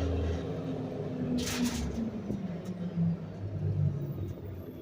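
Garbage truck engine running, its pitch shifting as the engine speed changes, with a short burst of hiss about a second and a half in.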